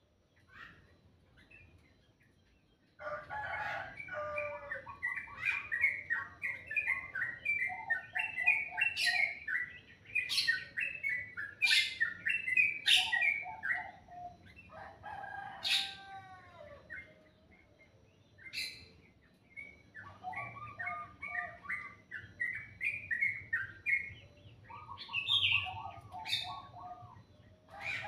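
Songbirds chirping and singing in quick runs of high notes and trills, starting about three seconds in, with short pauses between phrases.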